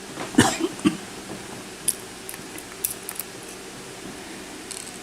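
Light metallic clicks and taps of small padlock pins and a pick being handled on a workbench while the Tesa padlock is taken apart. A few soft knocks in the first second, then scattered sharp ticks.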